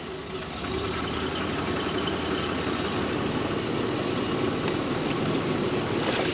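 Predator 212 single-cylinder four-stroke engine running steadily, driving a homemade mini jet boat.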